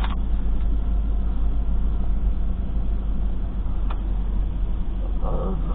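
Parked car's engine idling, a steady low rumble heard from inside the cabin, with a single click about four seconds in.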